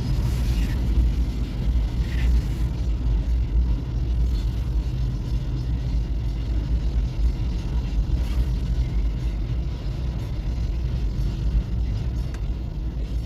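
Covered hopper wagons of a long freight train rolling past: a steady low rumble of wheels on the rails, heard from inside a car's cabin.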